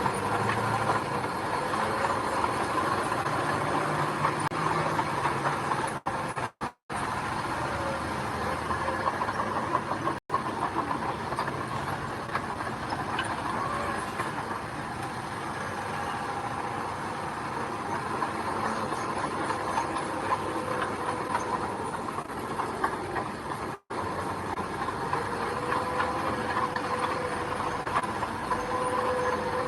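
Diesel engine of road-building machinery running steadily, with a rattling clatter over it. The sound cuts out abruptly for a moment three times.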